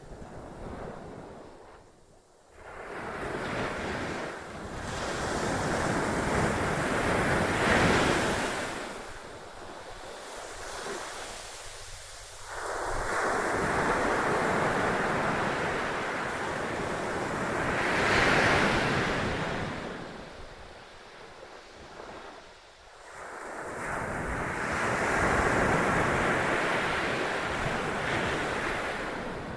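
Atlantic surf breaking and washing on a beach, in long swells: several waves crash and roar up, then fade back, with quieter lulls between them. Wind buffets the microphone.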